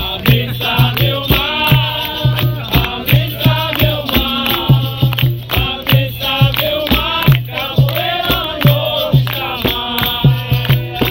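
Capoeira roda music: group call-and-response singing over a steady hand-drum beat and rattling percussion.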